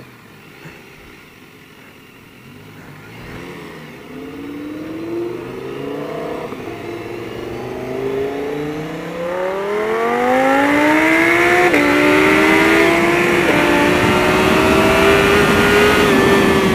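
BMW S1000RR inline-four accelerating hard at about 80% throttle. The engine pitch climbs steadily, drops sharply at two upshifts about two-thirds of the way in, then holds high, with wind rush building as speed rises.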